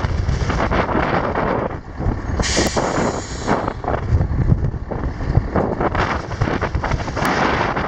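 1980 GMC Brigadier grain truck's Detroit Diesel engine running, with wind buffeting the microphone. About two and a half seconds in comes a short hiss of air from the truck's air brake system.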